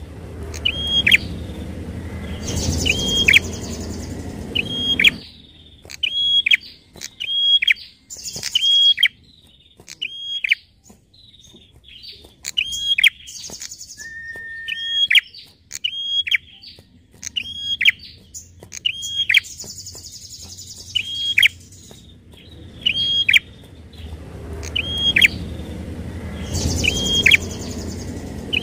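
Prinia (prenjak) calling: sharp, high notes repeated about once a second, with raspy buzzing phrases between them. A low rumble underlies the first few seconds and returns near the end.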